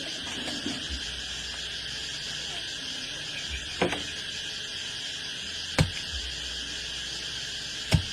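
Steady chorus of insects such as crickets, with three sharp knocks about two seconds apart in the second half.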